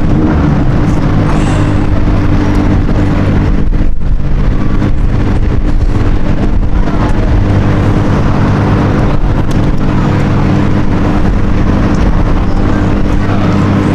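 Car engine idling steadily, its low note holding one pitch with no revving.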